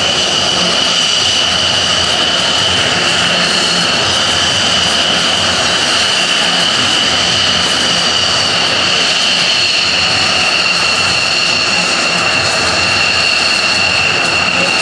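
Jet aircraft engines running steadily, with a high whine that holds one pitch over a broad rush of noise.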